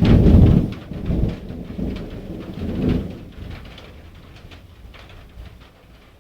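A sudden loud thunderclap that rolls on in two further swells of rumbling and dies away over about four seconds, with rain falling.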